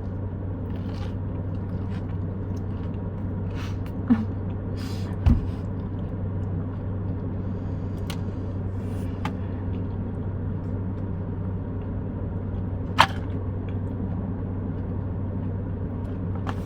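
Steady low hum of a car engine idling, heard inside the cabin, with a few short clicks and knocks; the sharpest comes about thirteen seconds in.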